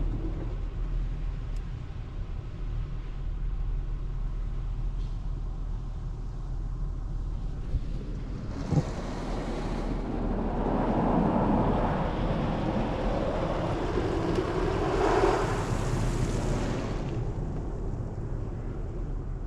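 PDQ LaserWash 360 touchless car wash spraying the car, heard from inside the cabin. Under a steady low hum, a hissing spray hits the body from about nine seconds in, swells, and dies away about seventeen seconds in.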